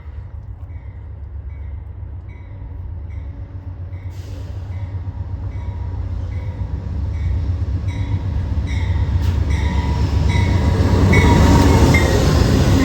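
A train approaching, its low diesel rumble and wheel noise growing steadily louder, while a grade-crossing bell rings about twice a second.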